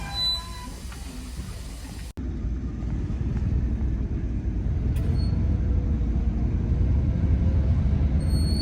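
Low, steady rumble of a train running on the line, growing slowly louder.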